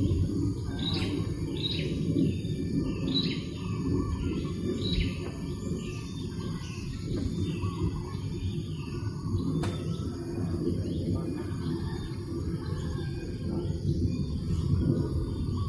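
Small birds chirping, short repeated calls coming thick in the first several seconds and thinning out after, over a steady low rumble of breeze.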